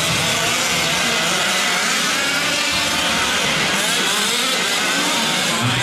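Several 1/5-scale gas RC trucks' small two-stroke engines racing together, their overlapping buzzing pitches rising and falling as they rev.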